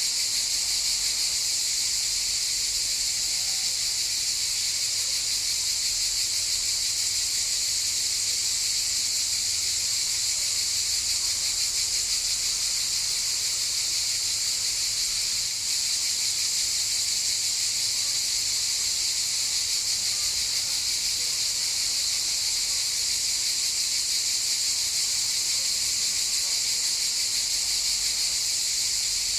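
Cicadas in chorus, a steady high-pitched buzz that doesn't let up.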